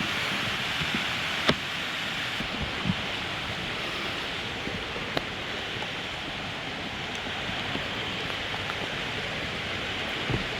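Steady hiss of falling rain, with a few faint taps scattered through it.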